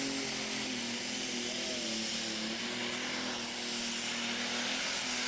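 Engine of a competition pulling vehicle running hard and steady during a pull. A dense roar sits over a held engine note, which dips slightly about a second and a half in.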